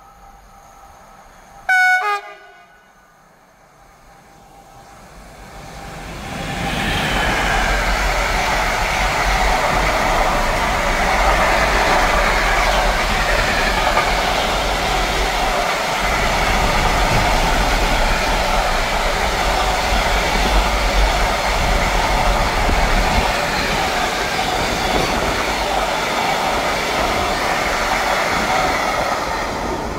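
Traxx E186 electric locomotive sounds its horn once, briefly, about two seconds in: the RP1 'Baczność' (attention) warning signal. The train then draws near and a long container train passes at speed, a loud steady rumble of wagon wheels on the rails.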